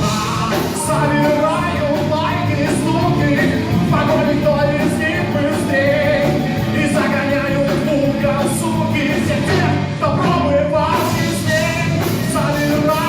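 Live rock band playing, with a wavering melodic lead line over the full band.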